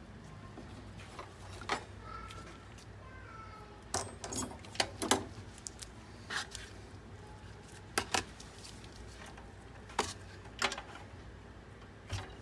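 Scattered sharp clicks and light knocks of small hard parts being handled during a desktop PC teardown, over a low steady hum.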